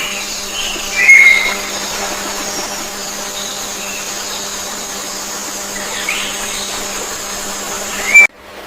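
A few short bird chirps, the loudest about a second in, over a steady hiss with a thin, high, steady whine.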